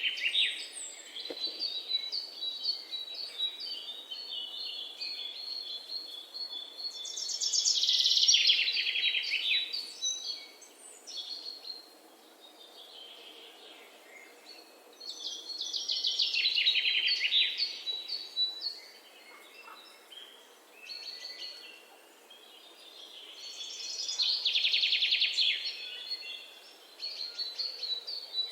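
Woodland birdsong: one bird repeats a rapid, trilling song phrase of two to three seconds about every eight seconds. Softer, thin high chirps from other birds fill the gaps.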